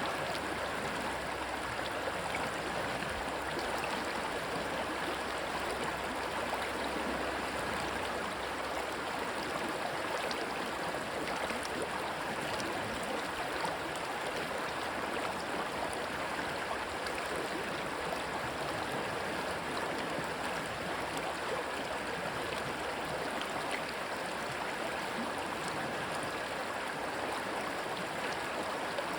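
Rushing water of a stream, a steady unbroken rush.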